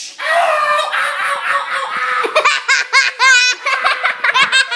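Children laughing hard in quick, high-pitched bursts, loudest a little before the middle.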